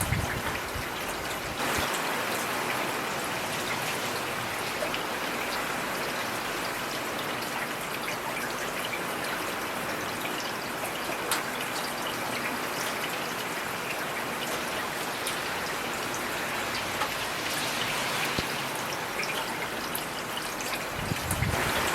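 Heavy rain falling steadily, a dense even hiss with individual drops ticking through it. It steps up a little about two seconds in.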